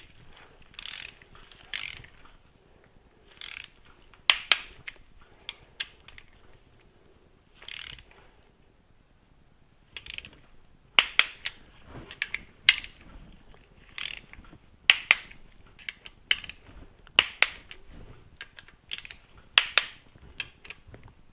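Ratchet head of a torque wrench clicking in short runs and single sharp clicks as engine bolts are tightened and rechecked to torque, with a quieter stretch near the middle.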